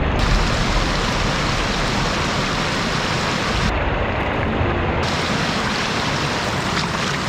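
Heavy monsoon rain and rushing runoff water: a steady, dense hiss.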